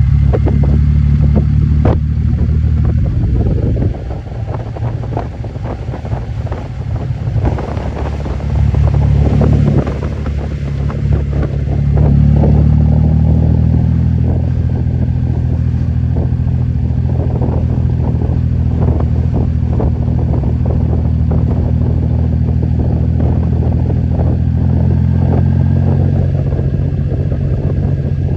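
Motorcycle engine running while riding downhill. The engine note eases off a few seconds in, picks up, and eases again before rising steadily after about twelve seconds.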